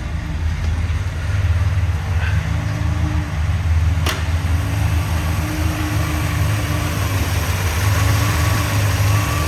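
1965 Chrysler 300L's V8 idling cold just after a cold start, not yet smooth while it warms up. A single sharp click about four seconds in.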